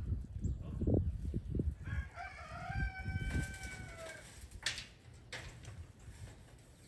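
A rooster crows once, a single drawn-out call of about two seconds starting about two seconds in and dropping slightly at its end. Low rumbling noise comes before it, and two sharp clicks follow.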